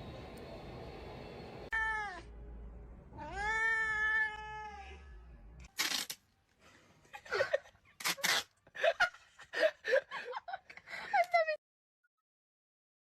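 A cat meowing: a short falling meow, then a longer drawn-out one, followed by a run of short, sharp cries.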